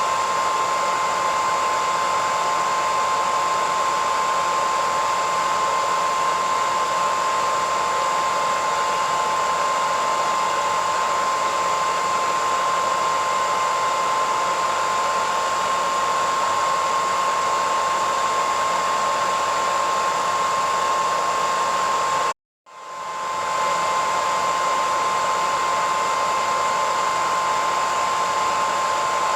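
Hair dryer running steadily: a constant rush of air with a steady high whine. About two-thirds of the way through it cuts out for a split second, then swells back in.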